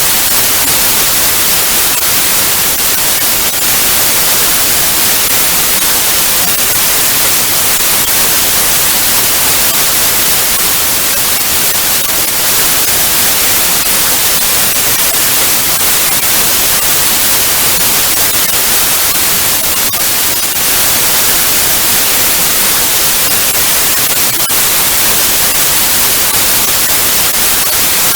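Television static: a loud, steady hiss weighted toward the high end, with no tone or pattern in it.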